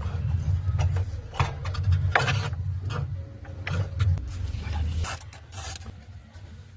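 Low rumble of a brazing torch flame on copper capillary tubing, with repeated rubbing and scraping strokes over it; the rumble drops away about five seconds in.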